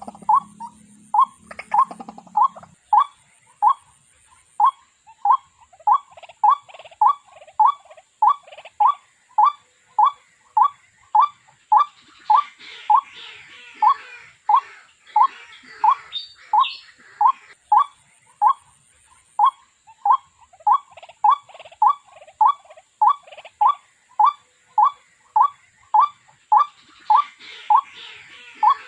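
Waterhen calling: a single short note repeated monotonously and evenly, about three times every two seconds. Fainter scattered chatter sits behind it in the middle and again near the end.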